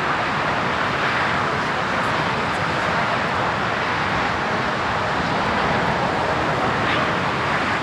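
Jet engines of an Airbus A320neo airliner: a loud, steady rush of jet noise that holds even throughout.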